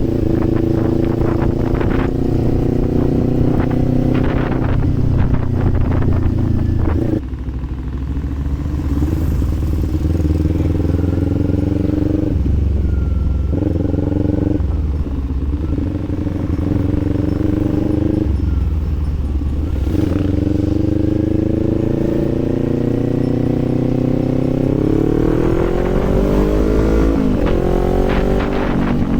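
Kawasaki Z400's parallel-twin engine and exhaust while riding. The note holds steady, eases off about a quarter of the way in with a few brief dips afterwards, then rises as the rider accelerates near the end and drops sharply at an upshift.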